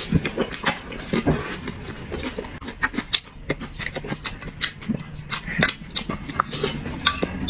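Close-up chewing and lip-smacking while eating: a quick, irregular run of wet clicks and smacks.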